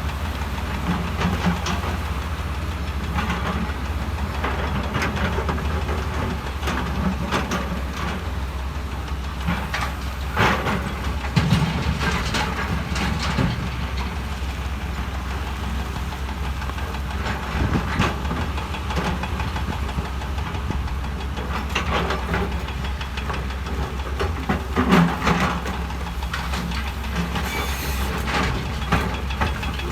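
Heavy diesel earthmoving machinery running steadily, with scattered clanks and scrapes of rock and steel as stone is moved.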